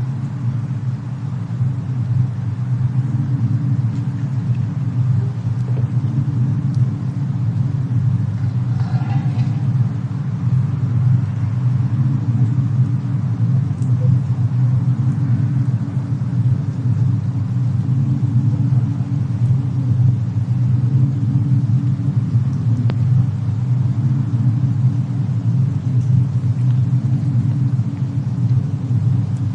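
Steady deep rumble, a dense low band of noise with little high sound above it, with a faint brief crackle about nine seconds in.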